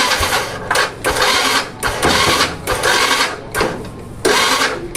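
Small Honda C-series motorcycle engine running, revved in a string of short loud bursts, roughly one every half second to second, over a steady low running note.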